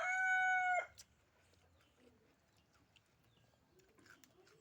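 Rooster crowing, its long held final note breaking off a little under a second in, followed by faint scattered clicks.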